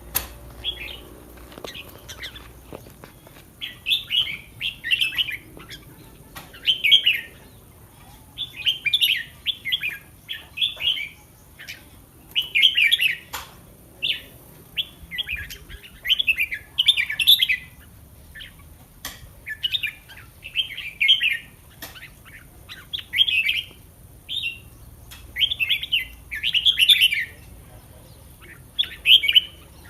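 Red-whiskered bulbul singing: short, quick phrases repeated every second or two, with a few faint clicks between them.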